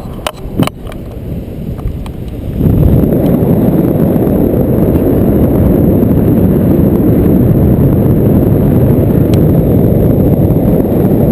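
Wind buffeting the microphone, loud, low and rumbling, setting in suddenly about two and a half seconds in after a few light handling clicks.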